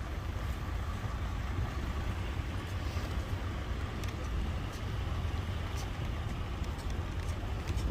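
Steady low rumble of outdoor background noise with a fainter hiss above it and a few faint ticks.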